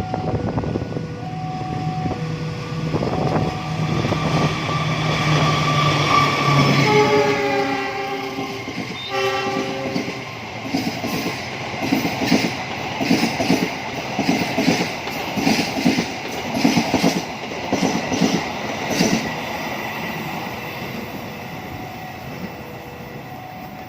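Diesel passenger train passing: its horn sounds twice, falling in pitch, about a third of the way in, then the wheels clatter rhythmically over the rail joints for several seconds as the carriages go by. A two-tone level-crossing alarm dings at the start and again near the end.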